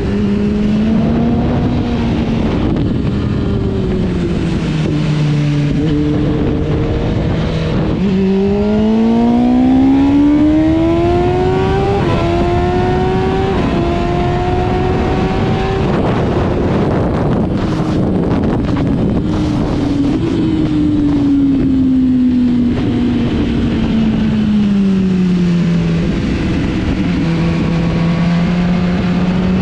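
Motorcycle engine under way with heavy wind rush. About eight seconds in the revs climb hard through two gear changes, then fall away as it slows, and they pick up again near the end.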